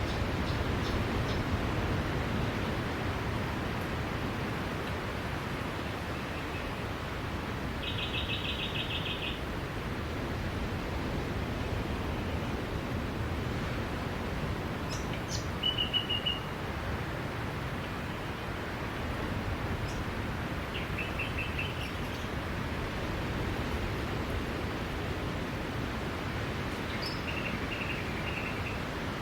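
Steady wash of sea waves on a beach, with small birds chirping over it: one quick trill about eight seconds in and a few short chirp runs later.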